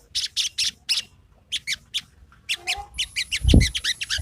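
Sogon songbird singing a fast run of short, high chirping notes, the kind of song used as a lure to set a quiet bird singing. The notes come thicker after about three seconds, and a low thump sounds about three and a half seconds in.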